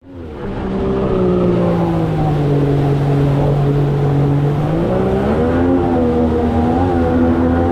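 Outboard engine of an inflatable jet boat running under way, its pitch easing slightly and then rising again about five seconds in. The sound comes in quickly from silence at the start.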